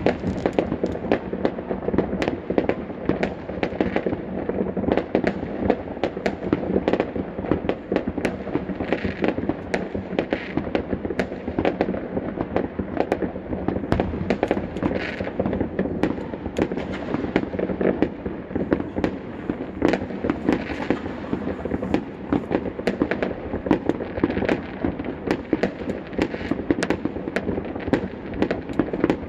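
Fireworks going off in a continuous barrage: many bangs and pops each second, with no break, as aerial shells burst over the rooftops.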